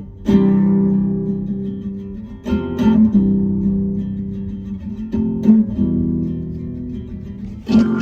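Instrumental stretch of a song: an acoustic guitar strums a chord about every two and a half seconds, each one left to ring and fade.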